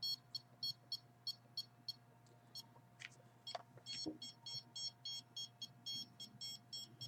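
Microwave signal detector beeping in short, irregular bursts of several beeps a second, with a pause of about a second and a half partway through. The bursts come and go because the detector is picking up a signal that she calls pulsed, not continuous.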